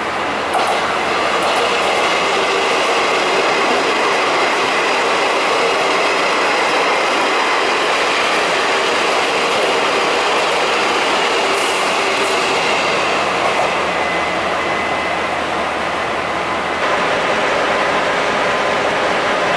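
Puyuma Express tilting electric train passing through the station at speed: a continuous loud rush of wheels on rail with a steady high whine above it. Near the end the sound changes abruptly to the R101 diesel-electric locomotive running slowly.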